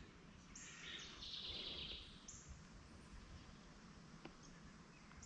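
Near silence: faint outdoor ambience, with a faint high chirping about a second in.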